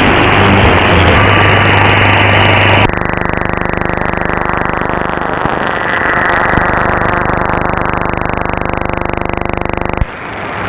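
Shortwave receiver audio from an SDRplay RSP1 software-defined radio: loud static hiss with faint steady whistle tones between broadcasts. About three seconds in, the sound narrows abruptly and a rapid, even buzz of interference pulses runs through it. The uploader puts this impulse interference down to neighbours' appliances with unfiltered power supplies.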